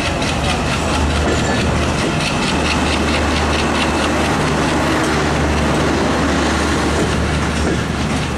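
Passenger train coaches rolling past close by: a loud, steady rumble of steel wheels on the rails, with a clickety-clack over the rail joints.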